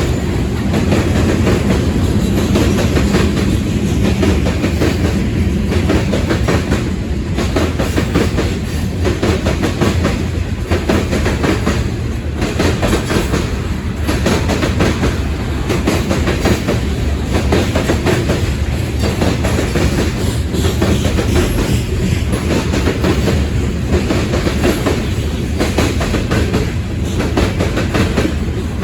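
Freight cars of a mixed freight train rolling past: a steady rumble with the clickety-clack of the wheels over the rail joints.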